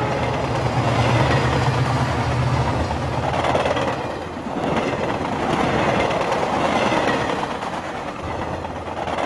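A train passing close by on the rails. A deep rumble in the first few seconds gives way to the steady rolling noise of the wagons.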